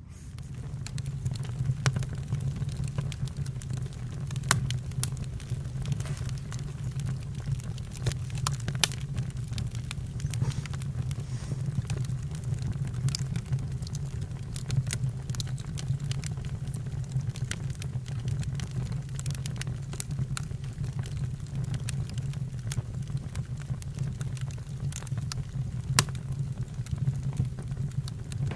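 Campfire crackling: a steady low rumble of burning with scattered sharp pops and snaps, coming up in level at the start.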